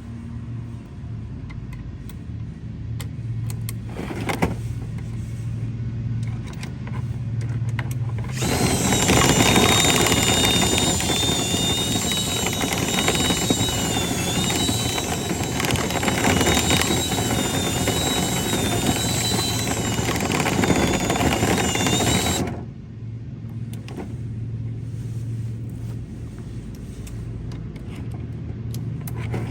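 A high-speed motor with a high, slightly wavering whine switches on about eight seconds in, runs for about fourteen seconds and cuts off suddenly. A steady low hum runs underneath.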